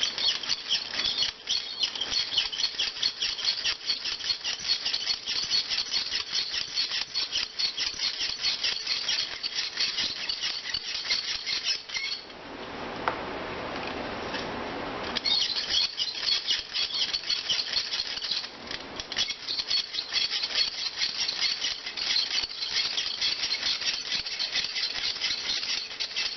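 Fine molding sand being shaken through a handheld mesh sieve onto a casting pattern: a rapid, continuous pattering rattle of grains on the mesh. About halfway through it gives way for a few seconds to a duller, steadier hiss, then the rattle resumes.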